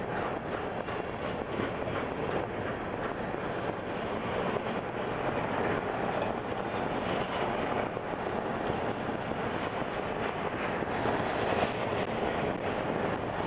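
Canadian National freight train running at speed: a steady noise of wheels on rails, with faint, irregular clicks.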